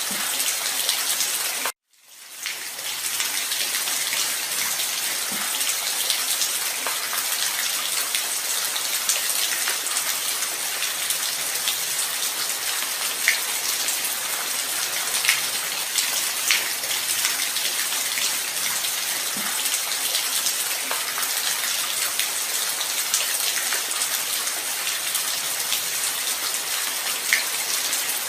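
Steady light rain: an even hiss with scattered single drops ticking through it. The sound cuts out for a moment about two seconds in and swells back up.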